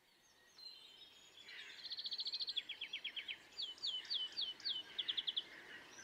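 A songbird singing in short varied phrases: rapid trills, then about five repeated down-slurred whistled notes, then another quick trill, over faint outdoor background noise.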